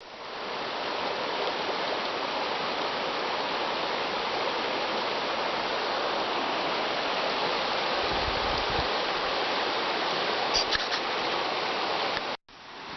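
Steady rush of running water, like a stream, with a few small clicks about three-quarters of the way in. The sound cuts out abruptly for a moment just before the end.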